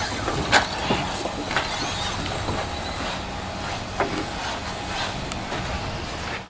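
Electric 2WD RC short course trucks running on a track: a steady rush of noise with a faint motor whine, broken by a few sharp knocks.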